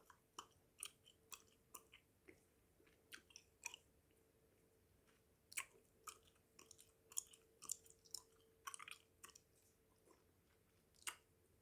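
Faint close-miked chewing of Hubba Bubba Max bubble gum: irregular wet mouth clicks and smacks with short quiet gaps between them.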